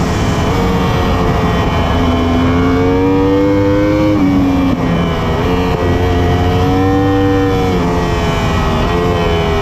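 Superbike engine pulling hard under acceleration. Its pitch climbs and then drops sharply at an upshift about four seconds in and again near the end.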